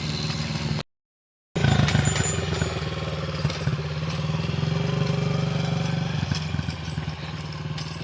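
Small dirt bike engine running steadily at low speed, the sound cutting out completely for just under a second about a second in.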